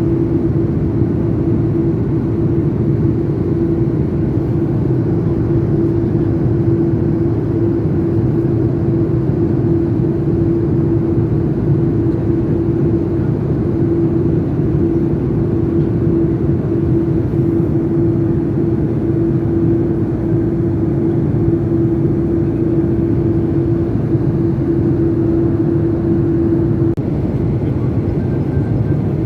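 Airplane in flight: a steady, even engine drone with a constant hum tone on top that drops out near the end.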